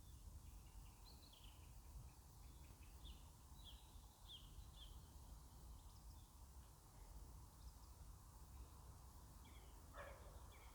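Faint, distant birdsong at dusk: short high chirps scattered every second or so, over a steady low background rumble.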